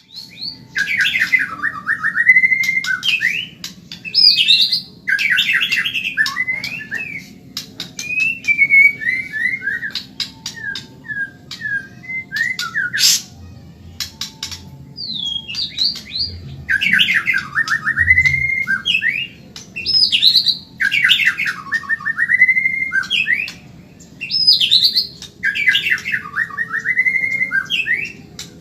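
White-rumped shama (murai batu Medan) singing fast, loud phrases of rapid rattling trills with sweeping notes, each phrase a second or two long with short breaks between.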